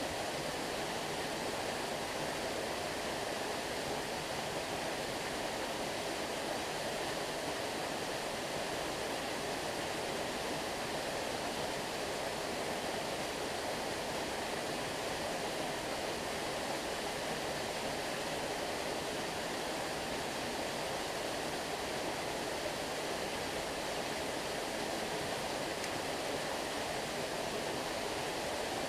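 A stream's water flowing steadily: an even wash of water noise that does not change.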